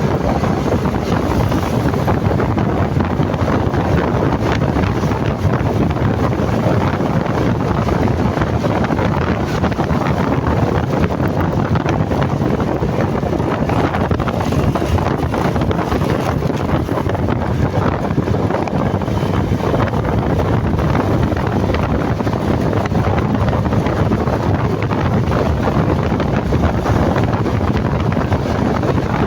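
Steady, loud wind rushing over the microphone of a moving motorcycle, an even rumble with no distinct engine note or events.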